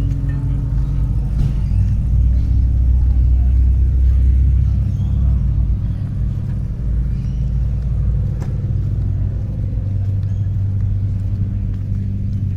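A car engine idling with a steady low rumble, deepest and loudest about two to five seconds in.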